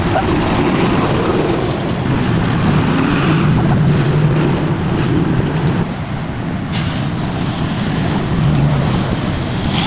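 Honda CD 70 motorcycle's single-cylinder four-stroke engine running steadily after being fitted, its note swelling and easing slightly.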